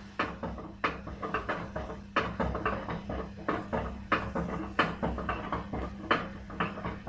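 Aspes washing machine drum knocking and clattering during the spin cycle, sharp knocks about one and a half times a second over the steady hum of the motor. The repairer calls this noise very characteristic of a broken drum shaft.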